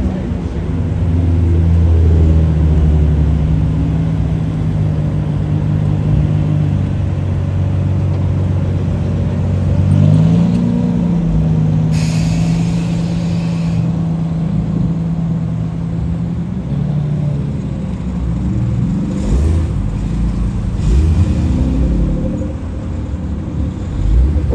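Car engine idling with a steady low drone, blipped briefly about ten seconds in, with a short hiss a couple of seconds later and a few more light revs later on.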